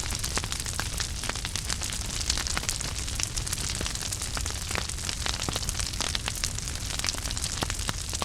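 Wood fire burning in a fireplace: steady hiss and low rumble under a dense, irregular crackle of small pops.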